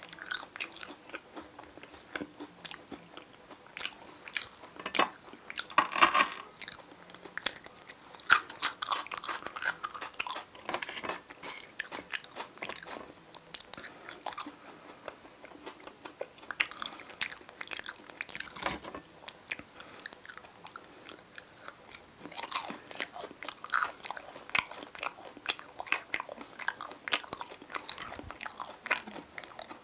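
Close-miked eating: a person chewing and biting food, with irregular mouth clicks and smacks.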